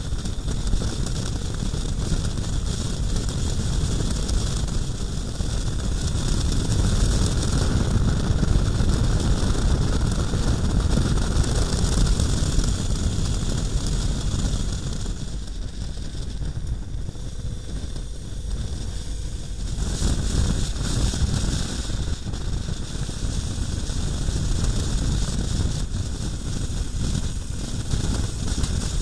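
Wind rushing over the microphone of a camera on a KTM 1090R motorcycle at road speed, with a heavy low rumble of engine and road noise beneath. The rush eases for a few seconds past the middle, then builds again.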